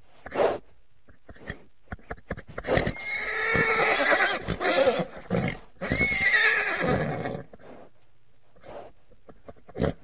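Horses whinnying: two long whinnies, one about three seconds in and another about six seconds in, with a few short knocks before and after.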